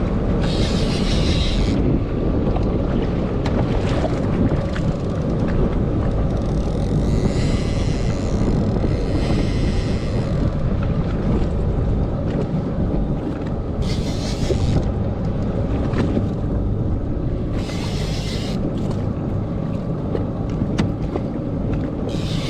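Boat's outboard motor running steadily, with wind buffeting the microphone. Short hissing bursts come and go a few times over it.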